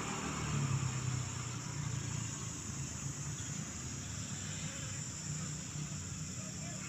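A vehicle engine running low and steady, a little louder about a second in, under a continuous high-pitched insect drone.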